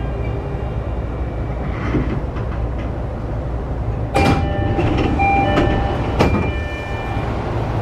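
Inside a JR East E531-series EMU motor car coming to a stop at a station: the motor whine dies away in the first second, leaving a steady low rumble. About four and six seconds in come two sharp knocks, each followed by short steady ringing tones.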